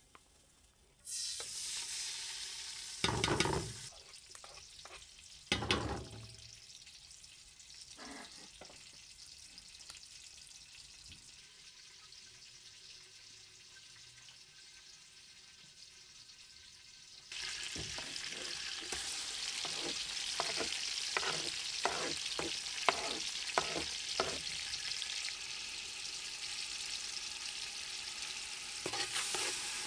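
Food sizzling in a hot pan while a utensil stirs it. Two heavy knocks come about three and six seconds in, then the sizzling dies down for a while. It returns loud about seventeen seconds in, with quick repeated clicks of the utensil against the pan.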